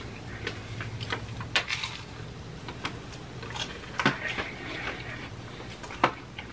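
A crunchy Doritos-flavoured hard taco shell being bitten and chewed: irregular sharp crackles, loudest about four seconds in and again about six seconds in.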